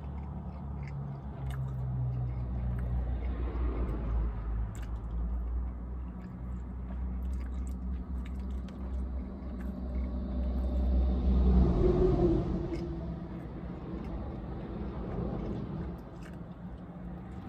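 A person biting into and chewing a soft sandwich, with small wet mouth clicks, over a steady low rumble. About twelve seconds in, a louder swell of noise rises and fades away.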